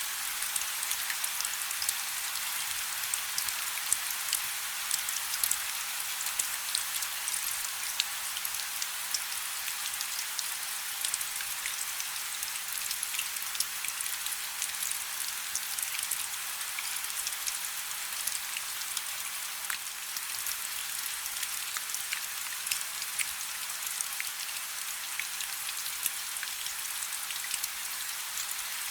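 Light rain falling steadily: a soft continuous hiss with many small, sharp drop ticks scattered throughout.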